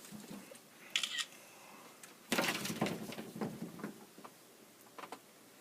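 Handling noise at the wall: a brief high squeak about a second in, then a run of clicks and scraping rattles that starts about two seconds in and dies away, with a couple of stray clicks near the end.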